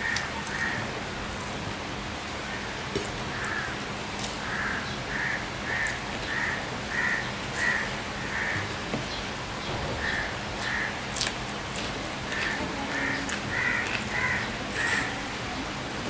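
A bird calling over and over in runs of short calls, about two a second, over the steady hiss of rain. A few soft clicks of eating are mixed in.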